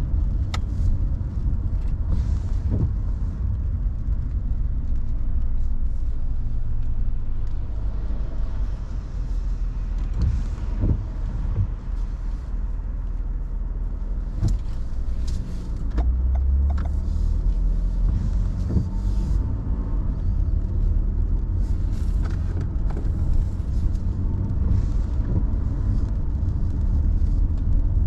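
Car on the move: a steady low rumble of road and engine noise, with scattered light clicks and knocks.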